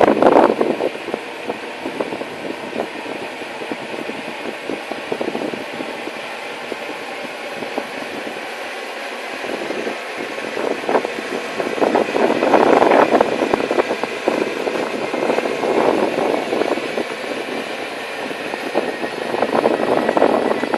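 Freight train running along the track: a continuous rolling, rumbling noise that eases off after the first second and swells again in the middle and near the end.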